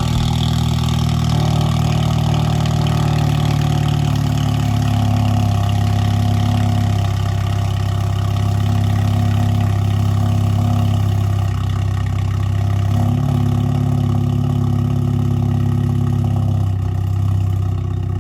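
Catless 2015 BMW 328i's turbocharged four-cylinder idling steadily at cold start, with a loud exhaust note. The idle shifts slightly a couple of times.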